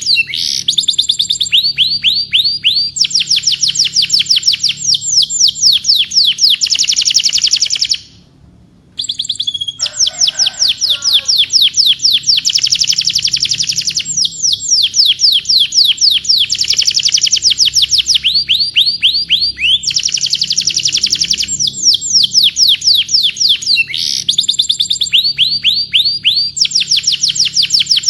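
Domestic canary singing: fast trills of high, down-slurred whistled notes, many a second, strung phrase after phrase. The song breaks off for about a second near the middle, and a lower, rougher twittering comes in briefly soon after.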